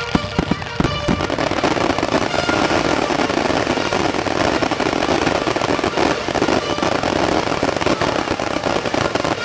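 Fireworks display in a heavy barrage: several sharp bangs in the first second, then a dense, unbroken crackling of many shells bursting at once, like a finale.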